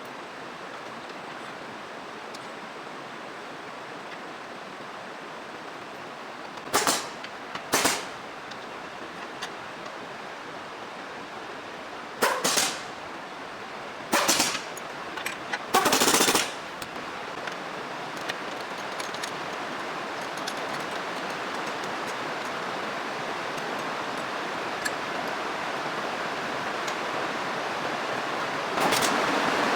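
Five short, loud bursts from a workshop power tool, the last about half a second long, over a steady hiss.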